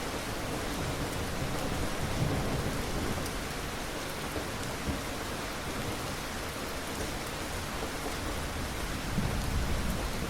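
Steady, heavy rain falling, with low rumbles of distant thunder swelling about two seconds in and again near the end.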